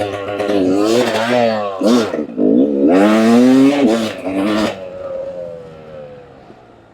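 Two-stroke dirt bike engine, a Beta 300, revved up and down in short blips on a woods trail; about five seconds in the throttle closes and the engine note falls and fades away.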